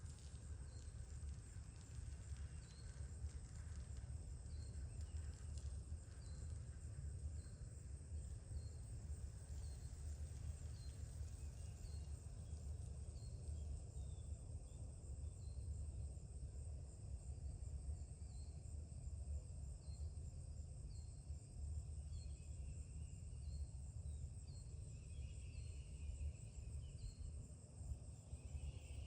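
Early-morning outdoor ambience: a steady high insect drone, with a short chirp repeated about once a second and a few other bird calls near the end. A steady low rumble runs underneath.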